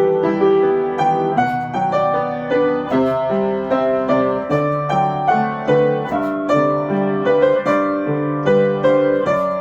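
Solo piano playing a pop-song arrangement, with a melody in single notes struck about every half second over sustained chords in the low register.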